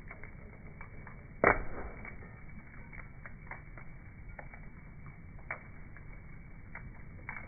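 Campfire crackling: scattered sharp pops and snaps from the burning fuel, with one much louder crack about one and a half seconds in.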